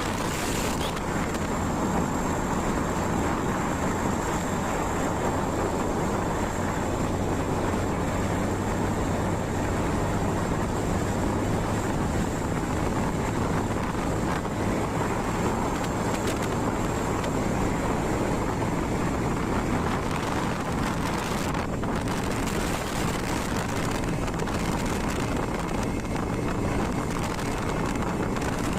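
Motorcycle running steadily at slow riding speed, with wind noise on the microphone.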